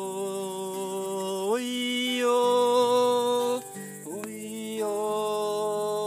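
A song with acoustic guitar: a singer holds long wordless notes, sliding up to a higher note about a second and a half in and starting a new one after a short break near the middle, over strummed guitar chords.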